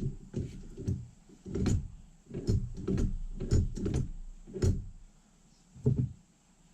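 An irregular series of about a dozen knocks and clunks from parts of a Ford 5.0 starter motor being handled and fitted together during reassembly, with a last single knock near the end.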